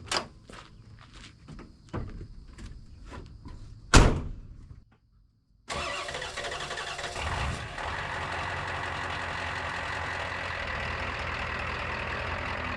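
A run of light clicks and knocks, then a vehicle door slamming shut about four seconds in. After a short gap, a vehicle engine runs steadily, heard from inside the cab while driving.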